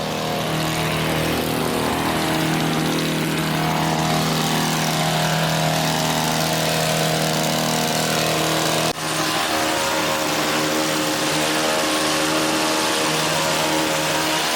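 Gas-powered two-stroke hedge trimmer running steadily at a constant pitch, with one sharp break about nine seconds in.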